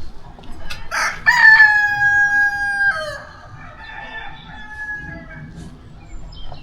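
A rooster crowing loudly about a second in: a long held call that drops in pitch at its end. A second, fainter rooster crow follows right after.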